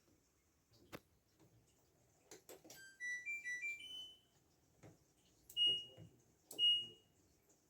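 LG F12A8ND washing machine control panel: button clicks, a short stepped electronic tune, then two single loud beeps about a second apart as buttons are pressed.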